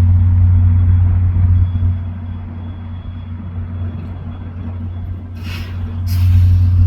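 Diesel passenger locomotive idling with a steady low hum, and two short hisses of released air near the end.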